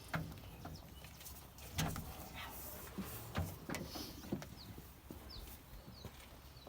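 Scattered light knocks and clicks of hand tools and small parts being handled, about half a dozen over the stretch. A few brief high chirps from a bird sound in the second half.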